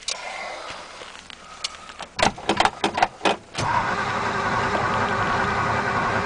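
A run of sharp clicks and knocks, then about three and a half seconds in the starter cranks the Ford 292 Y-block V8 steadily without it catching. The owner suspects corroded ignition points.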